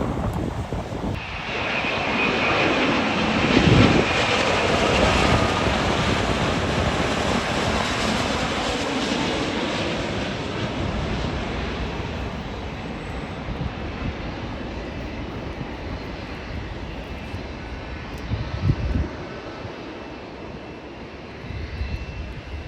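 Jet airliner passing by: the engine noise swells suddenly about a second in, peaks with a high whine a few seconds later, then slowly fades away.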